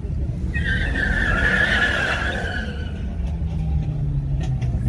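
Car engine running with a rumble while its tires squeal for about two seconds, starting about half a second in; then a few sharp clicks near the end.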